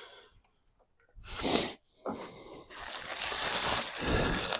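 Handling noise of wiring and parts being worked by hand: a short rustle about a second and a half in, then a longer, steady rustling crunch through the second half.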